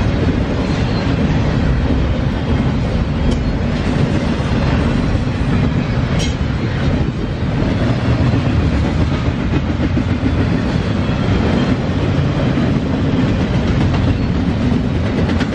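Norfolk Southern double-stack intermodal freight train rolling past at speed: a loud, steady noise of steel wheels on rail from the container cars going by.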